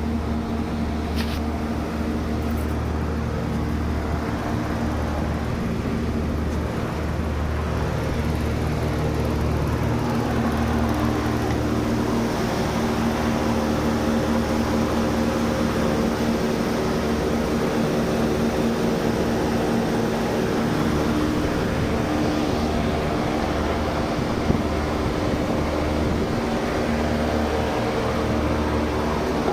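25-ton Trane package air-conditioning unit running: a steady mechanical hum with a low drone and fan noise, and one short click about three-quarters of the way through.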